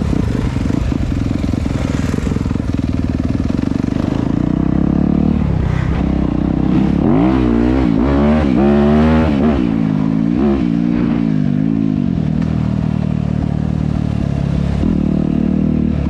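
Dirt bike engine running, its pitch rising and falling several times in the middle as the throttle is worked, steadier before and after.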